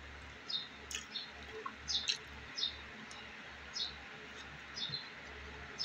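Small bird chirping faintly in short, high, slightly falling notes, about one a second, with a few soft clicks.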